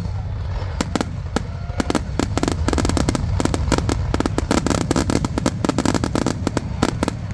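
Aerial fireworks grand-finale barrage: a rapid, dense volley of shell bursts and cracks over a continuous low rumble, the bangs coming thickest through the middle of the stretch.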